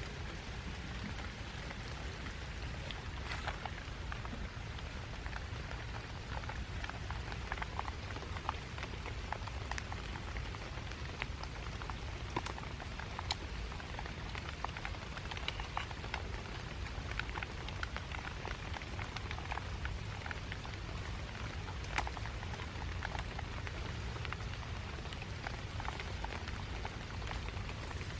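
Steady rain falling, with many scattered sharp ticks of single drops striking close by.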